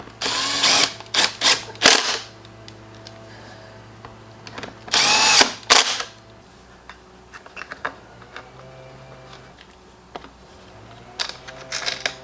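Cordless drill-driver running in short bursts, driving screws into a leaf blower's recoil starter housing: a burst at once, a few short ones a second or two in, and another about five seconds in. Light clicks of handled parts near the end.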